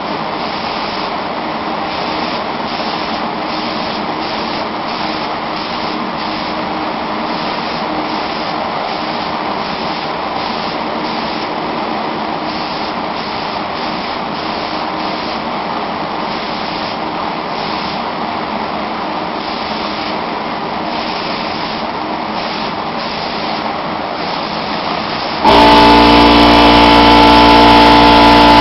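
A steady rushing noise, then about 25 seconds in an air compressor starts up suddenly and runs much louder, with a steady whining hum.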